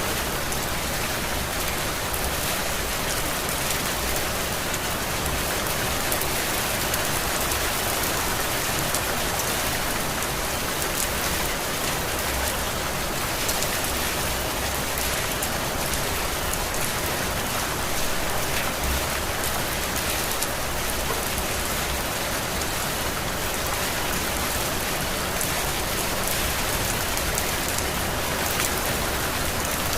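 Heavy tropical rain falling steadily, a dense hiss of drops with fine individual drop hits pattering through it.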